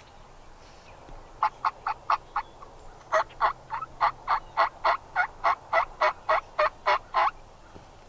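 A series of turkey yelps, about three to four a second: a short run of five, then after a brief pause a longer string of about fifteen.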